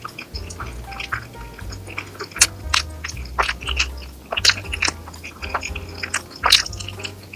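Close-miked eating sounds, sharp wet clicks and smacks of chewing, over background music with a steady bass line.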